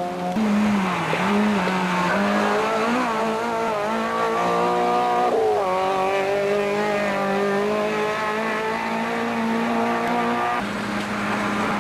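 Rally car engine running hard on a special stage, its pitch wavering as the car is driven. The engine note changes abruptly several times.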